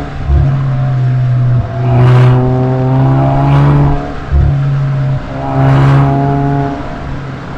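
Suzuki Swift Sport ZC33S's 1.4-litre turbo four-cylinder running through a SACLAM aftermarket muffler, heard from outside the car. The engine revs up and swells three times, with short drops in between.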